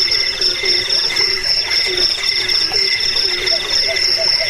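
Crickets chirping in a steady outdoor chorus. High insect trills pulse and come and go in stretches, and runs of short, low croaking calls repeat beneath them.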